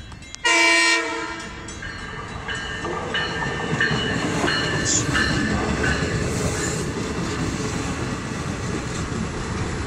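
A short train horn blast about half a second in. Then the LIRR bilevel C3 coaches roll out of the station, their wheels clattering with a few short high squeals, the rumble building over the next few seconds and then holding steady.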